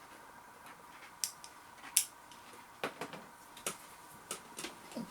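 Irregular light clicks and taps of crackers and cheese being handled for a tasting. The sharpest click comes about two seconds in.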